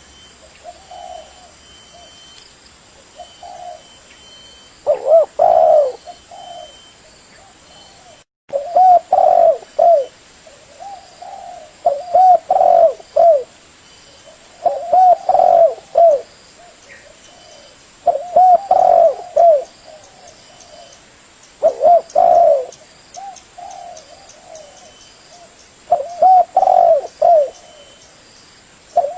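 Spotted dove (tekukur) cooing: a loud phrase of several coos repeats every three to four seconds, with softer single coos in between. The audio drops out briefly about eight seconds in.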